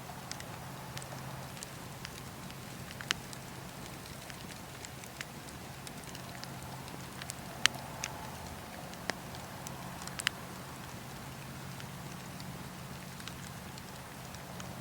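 Wood campfire burning and crackling: a steady hiss with a handful of sharp, scattered pops, the loudest about eight seconds in.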